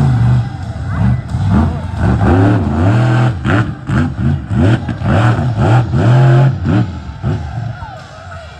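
Monster truck engine revving hard in quick repeated bursts, its pitch swooping up and down over and over, then fading near the end.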